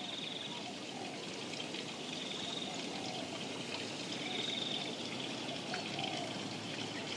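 Water trickling and running steadily, with a short high trill from a bird repeating about every two seconds.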